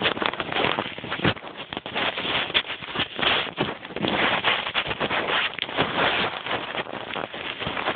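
Dirt bike being kick-started repeatedly without catching, over a continuous rough noise with irregular clicks and knocks.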